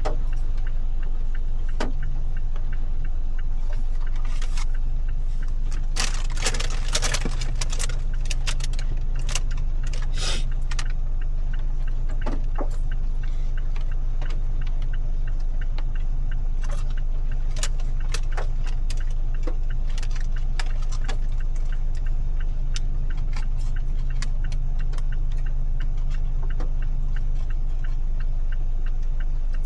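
Inside a moving car: a steady low hum of engine and road, with irregular sharp ticks and taps of rain hitting the car, thickest about six to ten seconds in.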